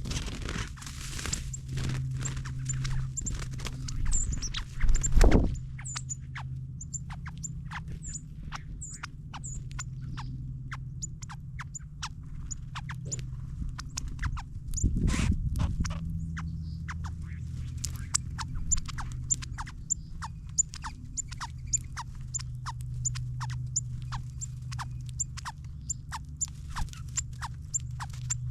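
Small birds feeding on seed on the ground: a busy run of pecking clicks and repeated high, thin chip calls. Two louder rushing bursts come about five and fifteen seconds in, over a steady low hum.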